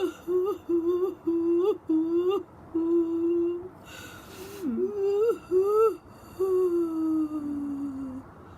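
A woman's exaggerated mock crying: a string of short, wavering whimpering wails, many rising at the end, then one long falling wail near the end.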